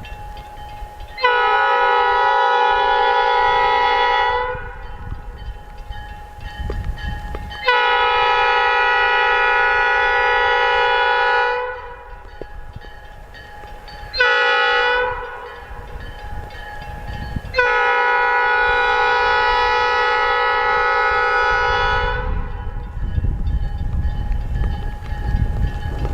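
EMD SD40-2 locomotive's air horn sounding the grade-crossing signal: two long blasts, one short, then one long, warning of its approach to the crossing. The locomotive's low rumble grows near the end as it draws close.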